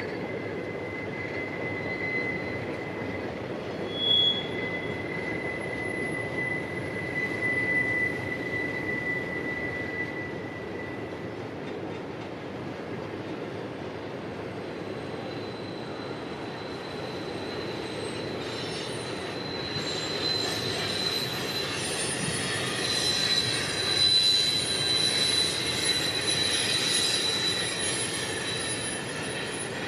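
CSX freight train rolling by, its steel wheels squealing on the rails in thin, high, steady tones. One squeal runs through the first third, and higher squeals come in and grow louder about two-thirds of the way through.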